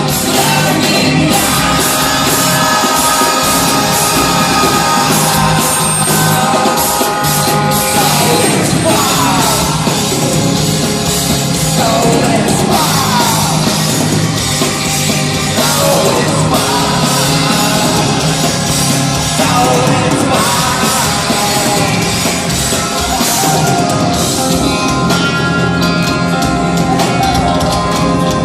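Heavy rock band playing live at full volume, with a sung vocal line sliding up and down over the band through the middle of the stretch.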